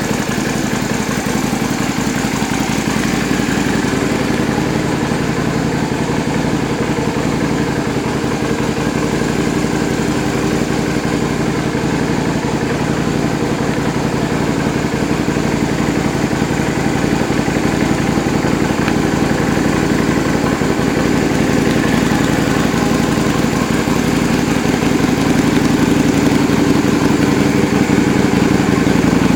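Yamaha Drag Star 250's air-cooled V-twin idling steadily through an aftermarket custom muffler, growing slightly louder in the last few seconds.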